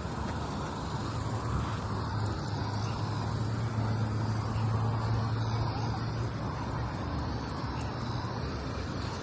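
Road traffic noise: a continuous hiss with a low hum that grows louder about two seconds in and eases off after about six seconds, as a vehicle passes.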